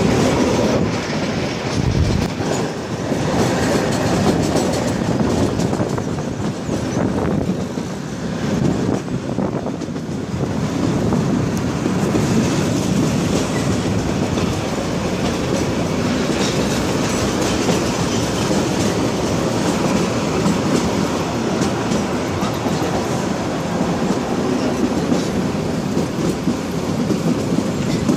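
Kalka–Shimla narrow-gauge toy train running steadily along the track, its wheels rumbling and clattering on the rails. It is heard from inside a coach at an open window.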